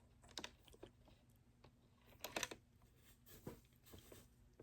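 Near silence with a few faint, scattered clicks and rustles as fabric is positioned under the sewing machine's presser foot.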